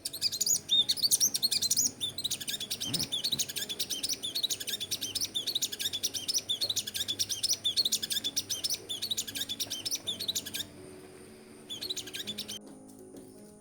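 Sunbird giving a fast, unbroken stream of high, thin chirps, which stops about ten and a half seconds in and comes back for one short burst a second later.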